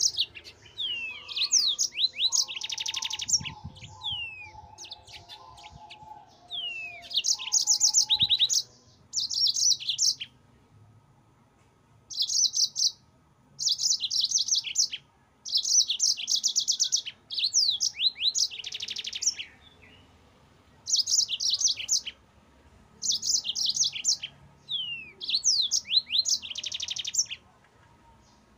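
Yellow-fronted canary (mozambik) singing in repeated bursts of rapid high trills mixed with quick down-slurred whistles, each phrase lasting a second or two with short pauses between them.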